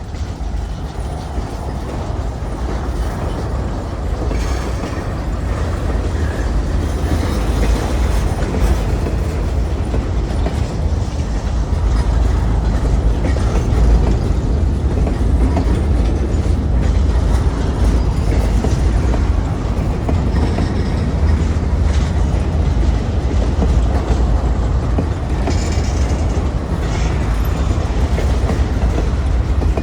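Freight train rolling past, a steady rumble with wheels clicking over the rail joints.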